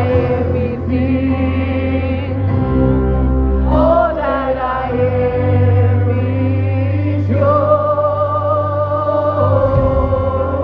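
Gospel music: a choir singing long held notes with vibrato over a steady low bass.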